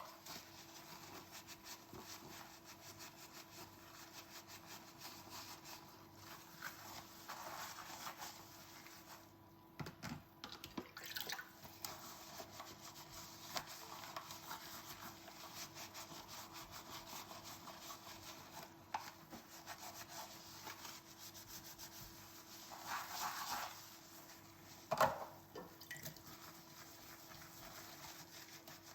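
Dishes being scrubbed by hand at the sink: a faint, continuous rubbing and scraping, with a few light clinks of tableware and one sharper knock a little before the end.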